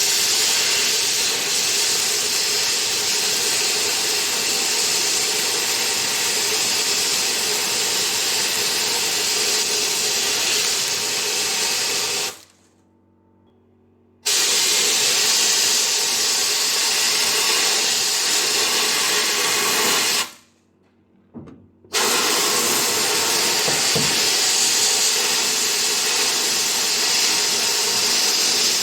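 Sandblaster blasting a brake caliper: a loud, steady hiss of air and grit in three long runs, cut off abruptly twice for about two seconds each.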